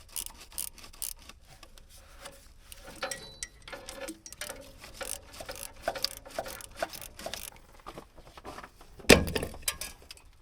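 Scattered light clicks and metallic clinks of hand work on a heater hose and its fitting, with one heavier thump about nine seconds in.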